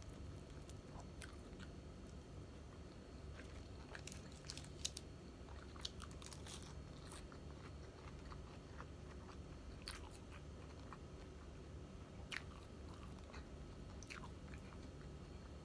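A person chewing fried tilapia, with faint scattered clicks and smacks of the mouth over a steady low background hum.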